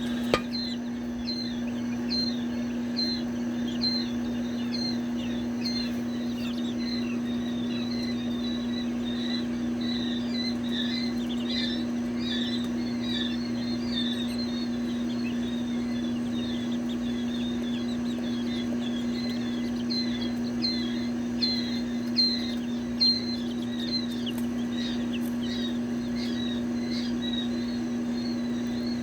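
A brood of chicks peeping continuously, many short falling chirps overlapping, over a steady low hum. A few light knocks come near the end.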